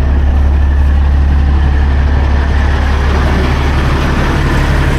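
Semi truck's diesel engine idling steadily with a low, even drone.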